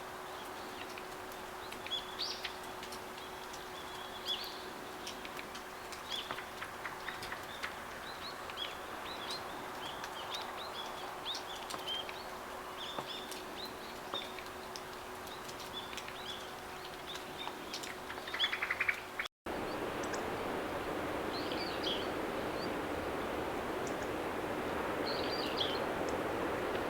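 Daurian redstart calling: a string of short, thin, high notes repeated every second or so, mixed with a few clicks. There is a break about two-thirds of the way through, and after it the background is noisier.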